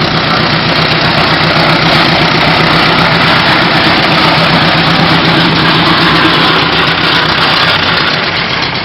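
A vintage engine running steadily at idle with a constant low drone.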